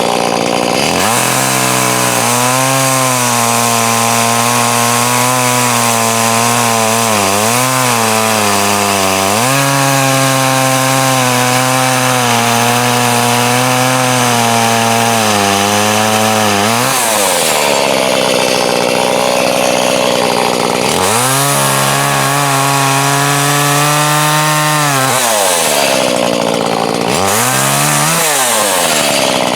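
Chainsaw running at high throttle while cutting wood, its pitch sagging and recovering again and again as the chain bites. Past the middle it drops to a lower tone for a few seconds, then revs back up.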